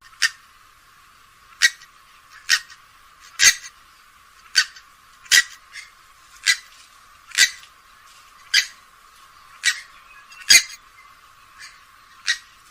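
Grey-headed swamphen giving a series of short, sharp call notes, about one a second, with no low end to the sound.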